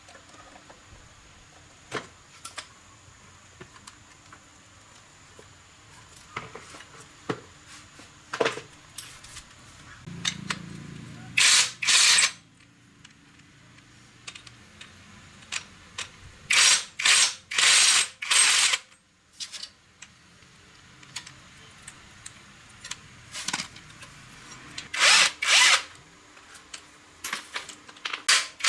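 Workshop work on motorbike parts: scattered clicks and knocks of metal tools and parts being handled. Several short, loud hissing bursts come in three groups, near the middle, a little after, and near the end.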